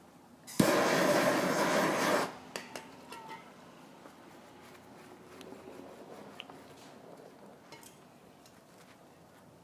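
Propane torch lit with a sharp click about half a second in, then blowing a steady, loud flame for under two seconds before it shuts off. Light taps and handling sounds follow as the heated patch is pressed down.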